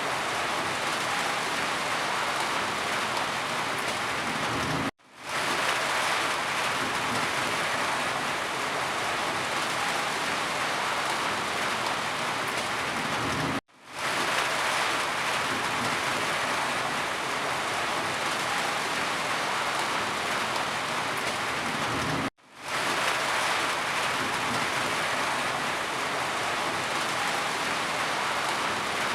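Steady rain falling, an even hiss. The sound cuts out abruptly three times, about every nine seconds, each time swelling back to full within about half a second.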